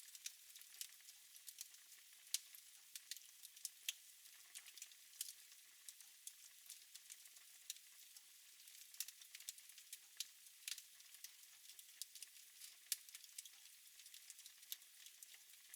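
Wood fire burning in a fireplace: a soft steady hiss with frequent irregular crackles and pops, a few of them sharper and louder than the rest.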